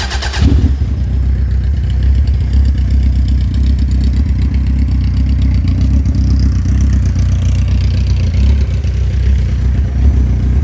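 2006 Suzuki Hayabusa's inline-four engine turning over on the starter and catching about half a second in, then idling steadily through a Voodoo aftermarket exhaust with its baffles fitted.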